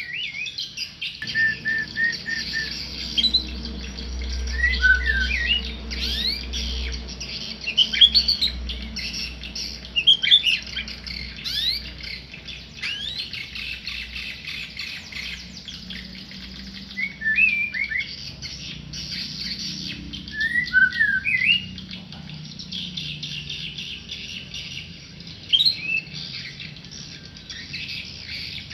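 A tame murai songbird singing in short phrases of quick, sharply rising and falling whistled notes and chirps, with gaps between phrases, over a steady high hiss.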